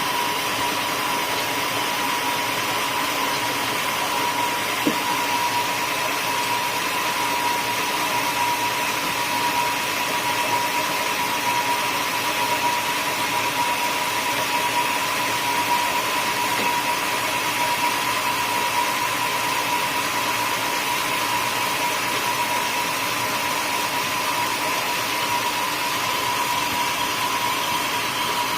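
Sawmill saw running steadily through a teak stump: a constant machine noise with a steady high whine that holds at one level throughout.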